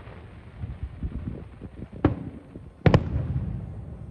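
Fireworks shells bursting overhead: two sharp bangs a little under a second apart, the second the louder, each followed by a low rolling rumble of echo, with fainter low thuds before them.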